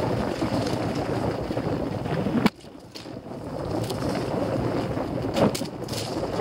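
Wind buffeting the microphone, a dense rushing noise that cuts out suddenly about two and a half seconds in and builds back over the next second, with a couple of sharp knocks near the end.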